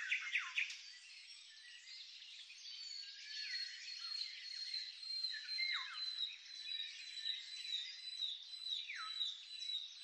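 Several birds chirping and calling together, with many quick downward-sliding whistles, loudest in the first second, and a thin high steady note running under them from about three seconds in.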